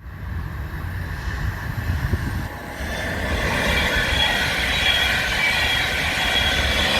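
A rail vehicle rolling along the track with a steady rumble, joined about three seconds in by high, steady wheel squeal as it gets louder.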